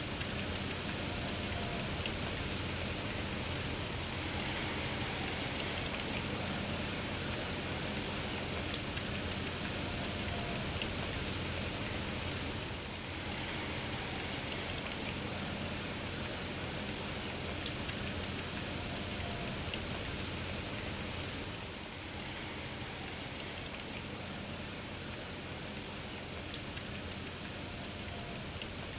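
Steady rain falling, an even hiss of drops with no thunder. Three sharp single taps stand out above it, about nine seconds apart.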